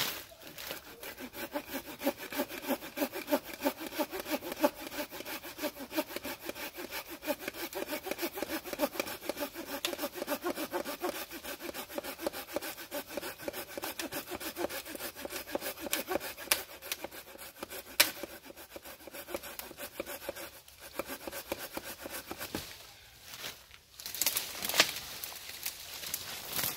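Hand saw cutting through wood in steady back-and-forth strokes, with short breaks about twenty and twenty-three seconds in.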